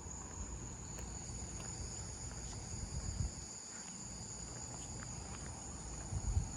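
A steady, high-pitched chorus of insects trilling, with a low rumble underneath and a couple of soft bumps.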